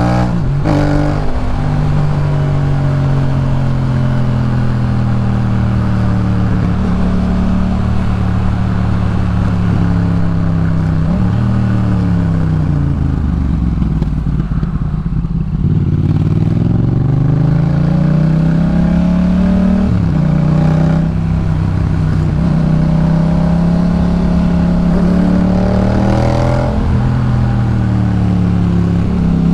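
Yamaha MT-07's parallel-twin engine running through a Jeskap K4 full aftermarket exhaust, heard from the rider's position while riding. The engine pitch holds steady, falls away as the bike slows about halfway through, then climbs again under acceleration, with brief dips at gear changes near the end.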